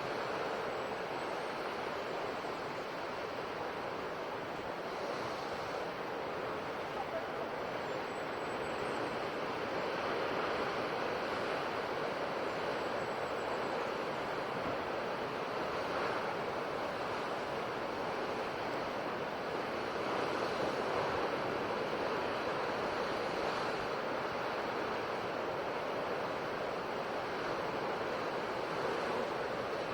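Ocean waves breaking on a shore: a steady wash of surf that swells and eases gently.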